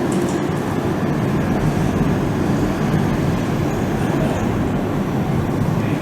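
Steady low rumble of a train in motion, holding an even level throughout.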